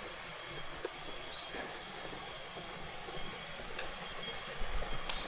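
Steady rush of water falling over a small waterfall, with a few faint high chirps over it.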